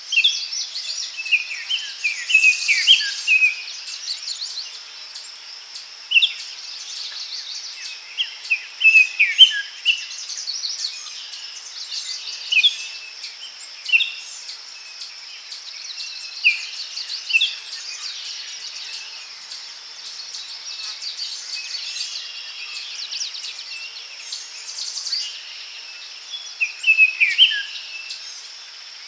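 Daytime forest ambience: songbirds giving short calls and quick falling notes, scattered through the clip with louder clusters near the start, around a third of the way in and near the end, over a steady high insect drone with a regular pulse.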